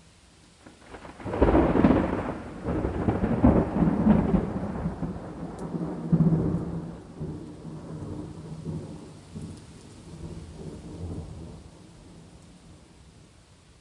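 A thunderclap breaks about a second in, cracking loudly for several seconds and then rolling away and fading out. Faint steady rain runs underneath.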